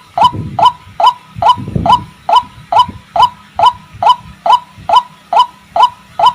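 White-breasted waterhen (ruak-ruak) calling: a steady run of short, sharp, down-hooked notes at about three and a half a second, from a bird-lure recording.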